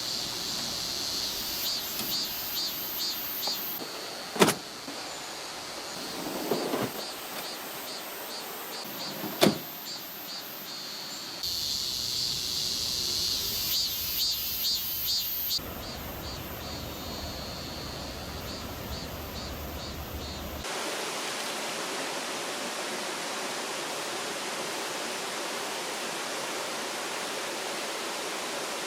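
Water of a mountain stream rushing steadily, with a high pulsing insect buzz over the first half and two sharp knocks, about four and nine seconds in. The sound changes abruptly several times, and the last part is an even rush of flowing water.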